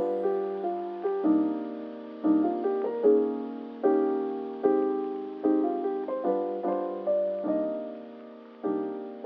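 Soft background piano music: slow chords and single notes, each struck and left to fade.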